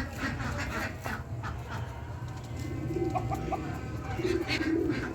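Mixed birds calling: a run of quick repeated chirps at the start, a few short clear notes about three seconds in, then several low calls near the end.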